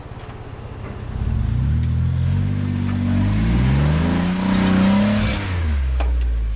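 Off-road 4x4's engine revving under load as it climbs a rocky ledge, its pitch rising for about four seconds and then dropping back. There is a sharp knock near the end.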